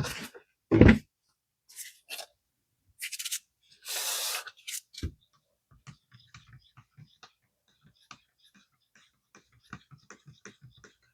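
Two-part polyurethane resin being handled and mixed in a cup: a low knock about a second in, a few short scrapes, then faint scratching and ticking of stirring.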